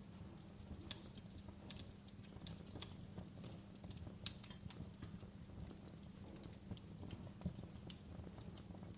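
Wood fire crackling in a fireplace: irregular sharp pops and snaps, a few louder than the rest (one about four seconds in, another near the end), over a low steady rumble.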